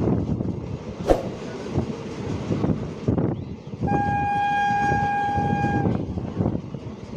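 Train wheels clattering over rail joints, with one steady train horn blast of about two seconds in the middle.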